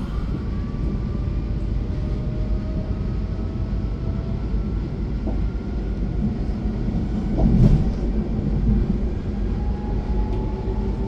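Passenger train running, heard from inside the carriage: a steady rumble of wheels on track with a faint whine slowly rising in pitch as it gathers speed, and a brief louder rumble about seven and a half seconds in.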